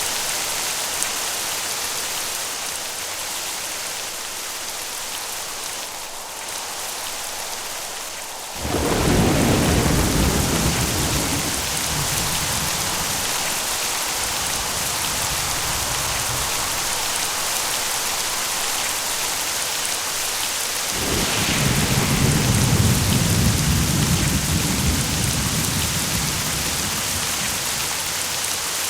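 Steady rain with two rolls of thunder: a deep rumble breaks in suddenly about a third of the way through and fades over several seconds, and a second, slightly louder one follows about two-thirds of the way through.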